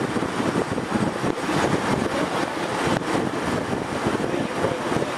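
Steady rumble and rattle of a railroad passenger car rolling along the track, heard from aboard.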